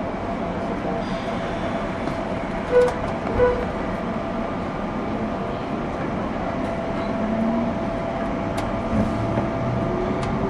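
JR 201 series electric commuter train running, heard from inside a motor car: a steady rumble of wheels on rail and running gear. Two short pitched blips come about three seconds in, and a faint steady whine comes in about six seconds in.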